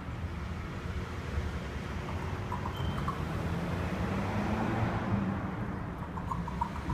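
Steady low outdoor rumble with a few faint, short bird chirps about halfway through.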